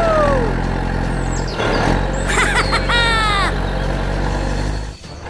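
A steady low engine-like hum, with a falling whistle-like glide at the very start and a cluster of quick descending whistling sweeps about two and a half to three and a half seconds in. The hum dips out briefly near the end.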